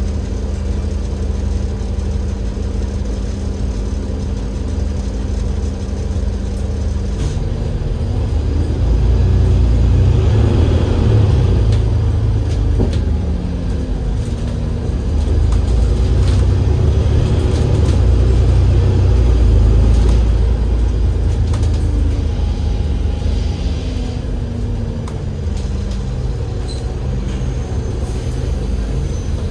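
Alexander Dennis Enviro500 MMC double-decker bus with a Cummins L9E diesel engine and ZF Ecolife six-speed automatic gearbox. It idles with a steady hum, then about seven seconds in the engine note rises as the bus pulls away and changes up through the gears. It eases off, pulls again, and settles back to a steady idle near the end.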